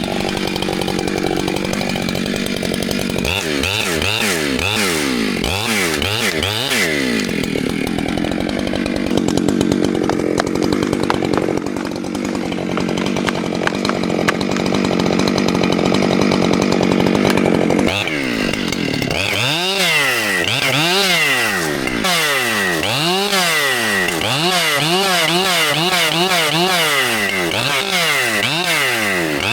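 Two-stroke chainsaw running and cutting into a tree trunk during felling cuts. Its engine pitch holds fairly steady for long stretches, then rises and falls over and over as the throttle is worked in the cut, most of all in the last third.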